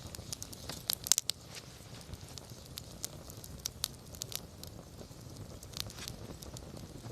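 Wood campfire burning with scattered crackles and pops, a quick cluster of sharp snaps about a second in, over a low steady rumble of flame.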